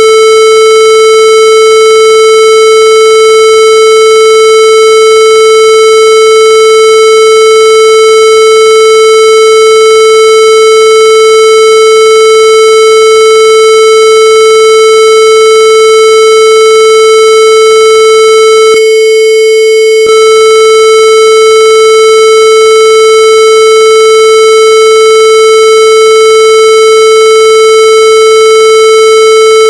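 Loud, steady electronic tone at one unchanging pitch, buzzy and harsh, held without a break.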